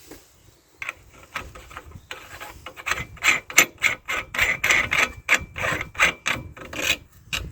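A rapid series of short scraping strokes, about four a second, sparse at first and coming thick and fast from about three seconds in.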